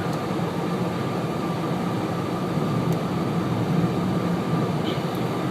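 Steady road and engine noise inside a moving car's cabin, an even rumble with no changes.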